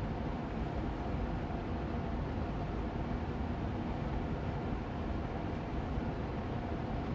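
Austin Air Allergy Machine air purifier fan running steadily on medium speed: an even rush of air with a low hum and a few faint steady tones beneath it.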